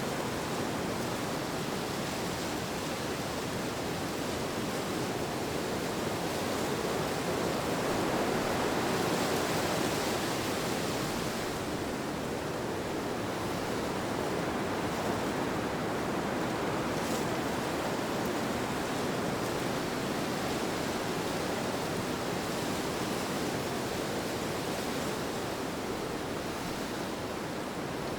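Steady wind as a soft, even rushing hiss that slowly swells about a third of the way in and eases again.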